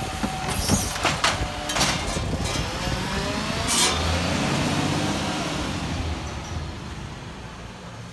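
Garbage truck: a few sharp clanks and knocks in the first couple of seconds, then the engine revs up and the sound fades away steadily over the last few seconds as the truck drives off.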